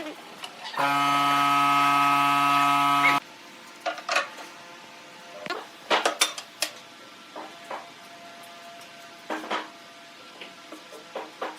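A small motor-driven machine hums steadily for about two seconds, then stops abruptly. Scattered sharp clicks and light knocks follow, like objects being handled.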